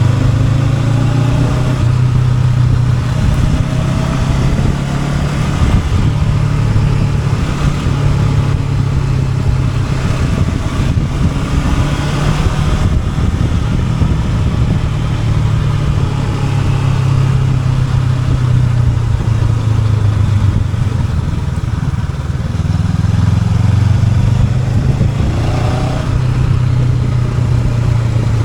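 Honda NX500 motorcycle's parallel-twin engine running steadily while riding, its pitch rising several times as it accelerates, at about the start, midway and near the end.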